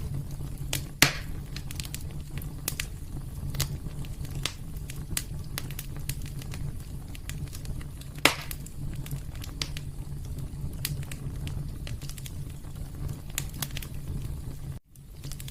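Wood fire burning in a fireplace: a steady low rumble of flames with constant small crackles and two louder pops, about a second in and around eight seconds in. The sound cuts out for an instant near the end.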